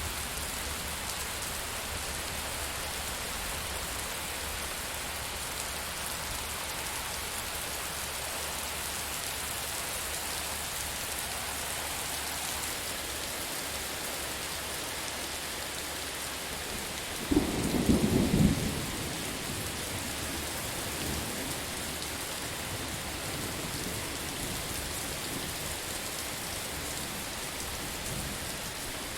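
Steady heavy rain hissing, with a sudden close thunderclap about two-thirds of the way through that crackles and rumbles for a second or two, then fainter rumbles.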